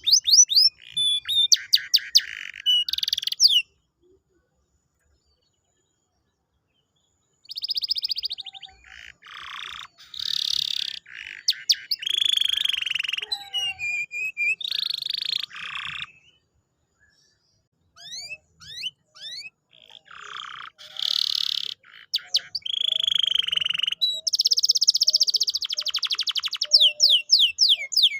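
Canary singing in phrases of fast repeated whistled sweeps, trills and buzzy rolls. It breaks off for a few seconds about four seconds in and again briefly past the middle.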